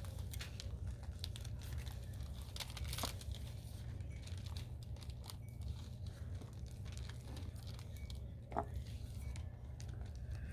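Wax paper crinkling and crackling in irregular bursts as the sheets around a slab of air-dry clay are handled and pressed, over a steady low hum.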